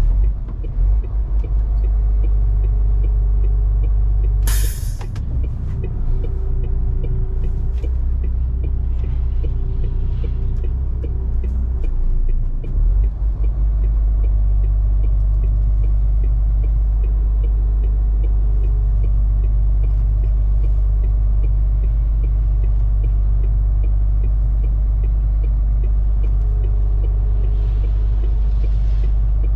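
MAN TGS 470 hp truck's six-cylinder diesel engine running as the loaded truck and trailer drive, a deep steady rumble. There is a short sharp hiss about four and a half seconds in, and the drone drops briefly just after it and again around twelve seconds in.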